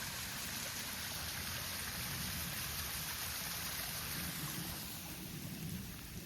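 Steady rush of water from a waterfall, easing slightly near the end.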